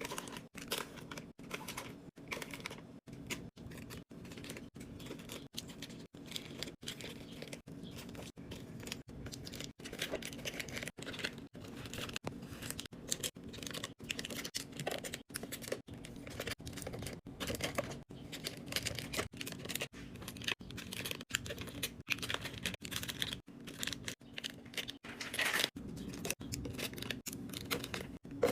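Food packaging being handled and unpacked: a continuous run of short rustles, crinkles, tearing and small clicks of plastic and containers.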